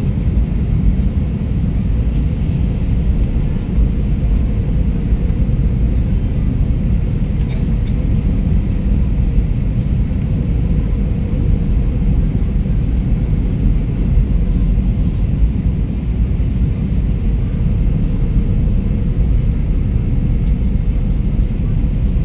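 Steady rumble of an Airbus A320-214's CFM56 engines and airflow, heard inside the cabin during the approach descent, with a faint steady hum above it.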